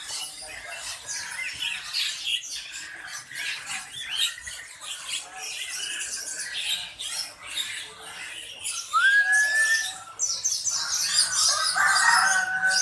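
Many caged birds calling at once, a dense chorus of short high chirps and calls. A clear rising whistle comes about nine seconds in, and the chorus grows louder shortly after.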